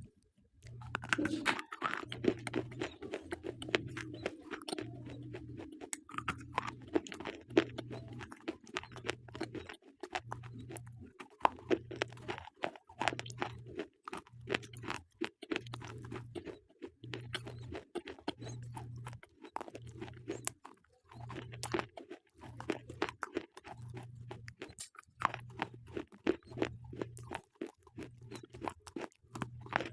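Slate pencils bitten and chewed close to the microphone: a dense, irregular run of sharp, gritty crunches that starts after a brief pause right at the start.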